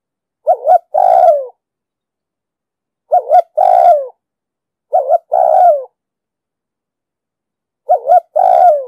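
Spotted dove cooing: four phrases, each two short coos followed by a longer, falling coo, with silent gaps of about two seconds between them.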